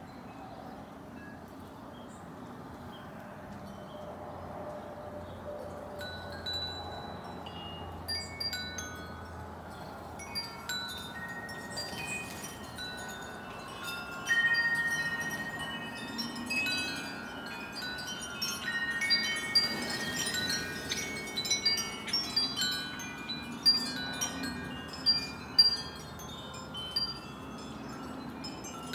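Wind chimes ringing in the wind, a jumble of clear held tones at several pitches, sparse at first and growing busier and louder from about halfway through, with a few strong strikes near the end.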